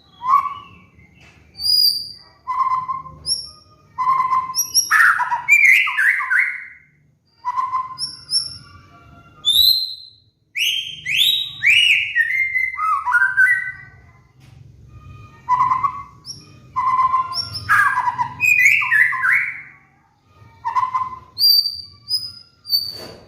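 White-rumped shama (murai batu) singing a varied song in quick bursts with short pauses between them. The bursts mix repeated low whistled notes with sharp high chips, and about ten seconds in there is a run of falling slurred whistles.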